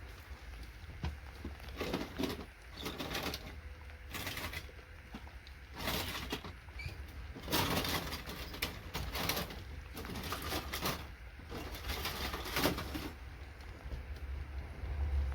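Bursts of clattering and scraping from handling scrap circuit boards and loose components, coming in about five short spells over a steady low rumble.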